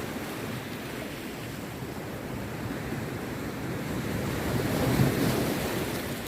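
Rough sea surf: waves breaking and washing onto the beach in a continuous rush, swelling to a louder surge about five seconds in.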